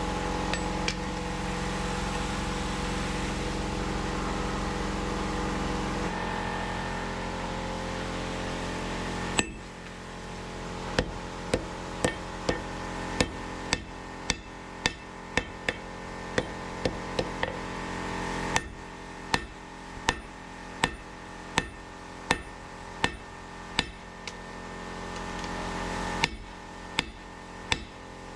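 A steady machine hum for the first third, cut off abruptly. Then a hammer strikes hot steel on an anvil in a regular rhythm of one to two blows a second, each blow sharp with a short metallic ring: hand-forging a Damascus steel blade.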